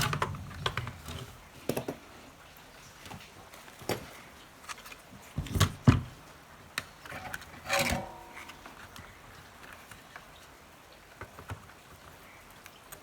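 Scattered clicks and knocks of small tools and wires being handled on a workbench, with a pair of louder knocks about six seconds in and a short scrape about eight seconds in.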